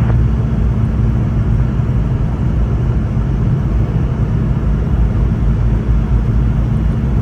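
Steady low rumble and hum inside the cabin of a Boeing 717-200, from its rear-mounted Rolls-Royce BR715 engines and the airframe, with a constant low drone under it.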